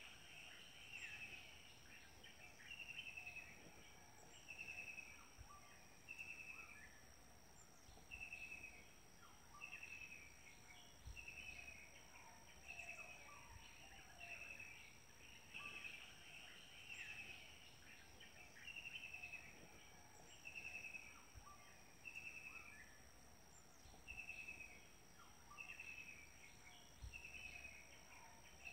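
Faint outdoor ambience: a bird chirping over and over, short falling notes about once a second, over a steady high insect drone.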